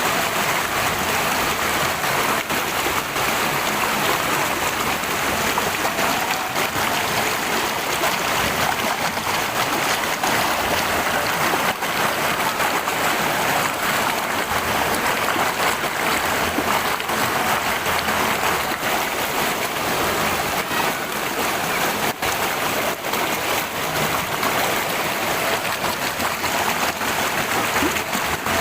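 Stream water flowing, a steady, unbroken rush and babble.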